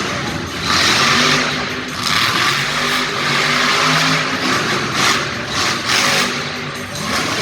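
Monster truck engine revving hard in repeated surges, its pitch rising and falling, loud throughout.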